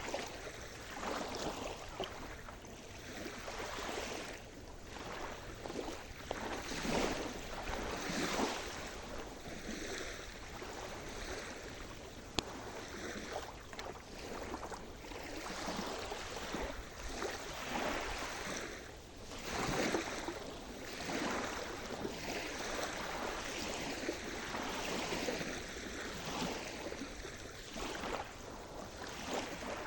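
Sea surf: small waves washing and breaking on the shore, one after another every second or two, with a few louder breakers. A brief click about twelve seconds in.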